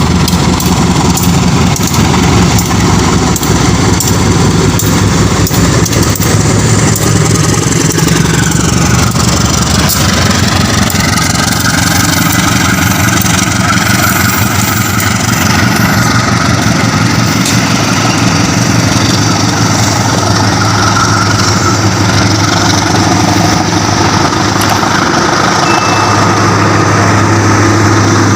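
Diesel locomotive engine running loud and steady, its pitch shifting around ten seconds in.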